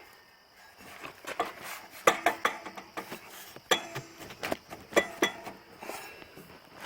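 Metal tools and engine parts clinking and clanking in irregular sharp knocks, some with a short metallic ring.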